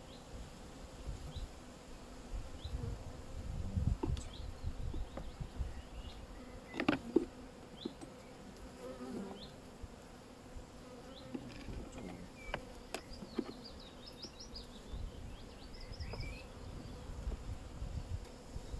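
Honeybees buzzing around an open hive, with a few sharp clicks and knocks, the clearest about seven and thirteen seconds in.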